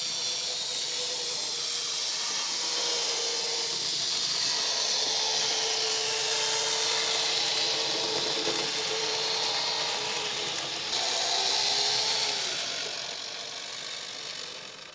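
Märklin mini-club Z-scale model train running on the track: the small electric locomotive motor whirs with a thin whine over the hiss of wheels on rail, swelling as it comes close, then fading away near the end.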